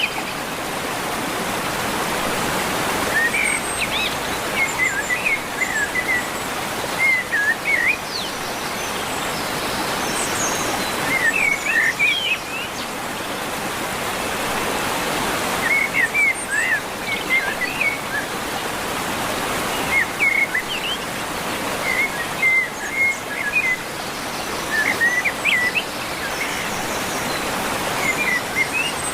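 A songbird singing short phrases of quick chirps, one phrase every few seconds, over a steady rushing hiss.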